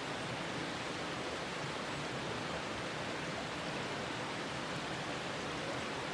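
Noodle broth boiling in a titanium pan over a campfire: a steady, even bubbling hiss.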